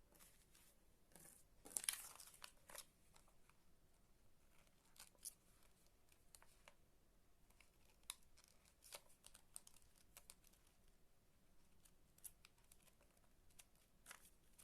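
Faint rustling and scattered small clicks of hands working craft materials, with a brief louder crinkle about two seconds in and another near the end.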